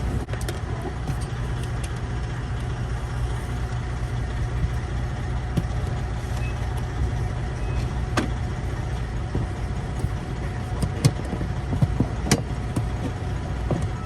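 Steady low rumble of an idling truck engine, with a few sharp clicks and knocks from hands and tools working plastic dash-trim clips.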